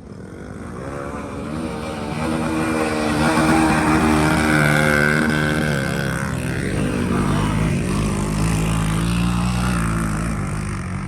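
Dirt bike engine under throttle, growing louder as the bike comes closer. Its pitch drops about six seconds in as it goes by, then it keeps running steadily.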